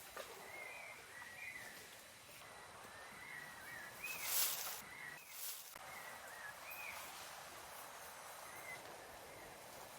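Rainforest ambience with many short, high, rising-and-falling chirping calls repeating irregularly over a steady background hiss. A brief rustling noise about four seconds in is the loudest moment, and a smaller one follows just after five seconds.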